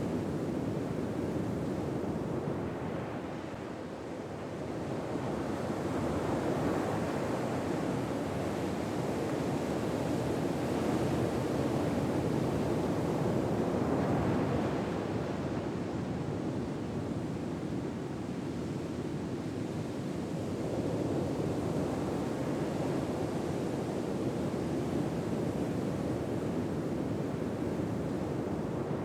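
Gentle ocean waves breaking on a shore, a steady surf wash that swells and eases slowly every several seconds.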